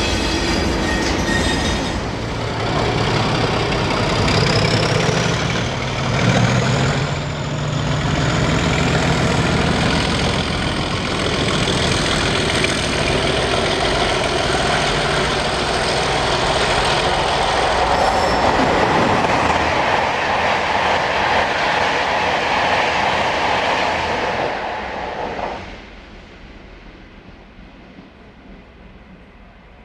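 A train passing close by on the track, loud and steady, with a brief rising high squeal about five seconds in. The sound falls away abruptly about 25 seconds in, leaving a much quieter background.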